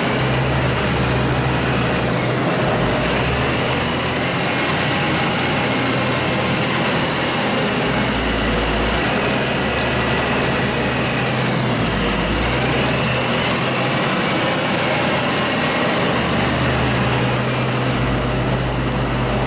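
A vehicle engine running steadily under way, with a high whine that rises and falls twice.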